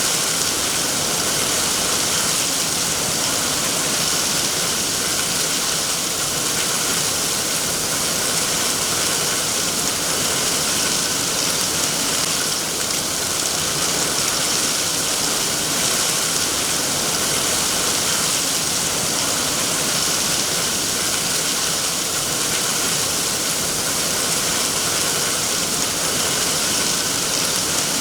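Steady heavy rain, an even hiss of falling water with no breaks or distinct drops.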